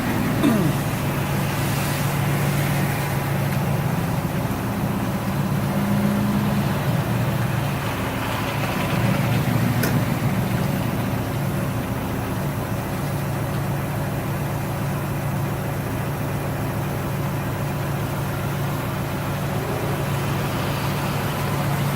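In-car sound of a turbocharged Subaru WRX STi's flat-four engine running at low, steady revs, with no hard revving. A short clunk about half a second in is briefly the loudest thing.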